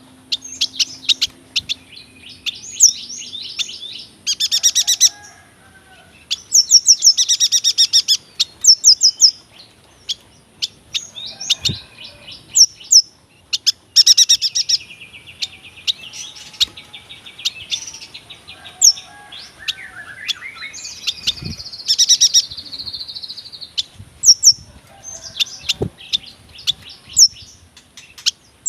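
Yuhina singing a long, rolling song. It comes in runs of rapid high chirps and trills, with many varied notes and short pauses between the runs.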